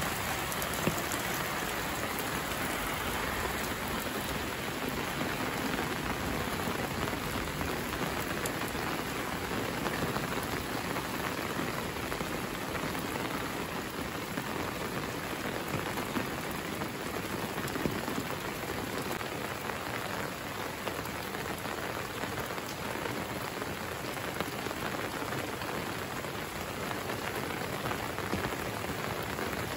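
Steady rain falling on a paved lane and the leaves around it, an even hiss with a few louder single drops now and then.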